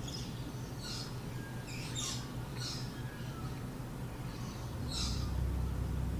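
Birds chirping, short high calls every second or so, over a steady low hum that grows louder about five seconds in.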